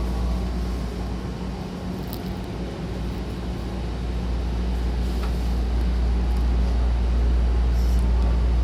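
Hankyu electric train standing at the station platform: a steady low electrical hum from its equipment, growing slightly louder over the second half, with a few faint clicks.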